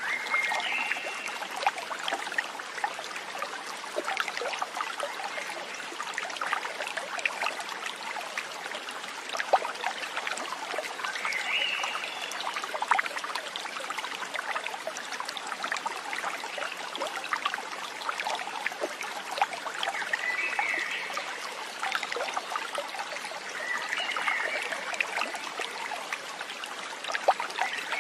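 Small stream trickling and splashing steadily, with a few short high chirps over it.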